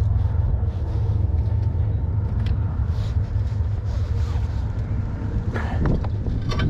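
Motorcycle on the road: a steady low rumble of engine and wind.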